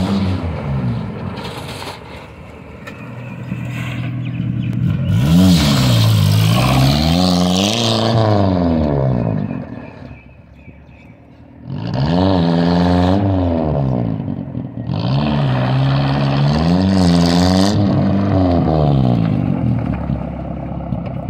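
Hindustan Motors Contessa's four-cylinder engine revved hard in repeated surges that rise and fall in pitch as the car is driven around on loose dirt. It drops away briefly about halfway through, then comes back up in several more rev surges.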